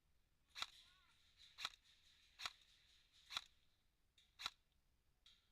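Airsoft gun firing single shots: six sharp cracks, about one a second.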